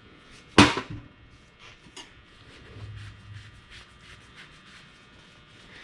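Differential parts and tools being handled on a workbench: one loud sharp clank with a short rattle about half a second in, then light clicks and rubbing.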